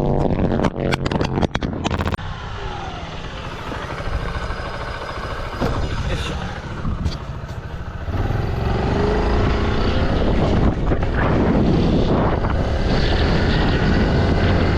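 Motorcycle engines running at a race circuit. About two seconds of sharp clattering knocks come first, then a quieter stretch with engines passing. About eight seconds in the engines grow loud, rising in pitch near the end.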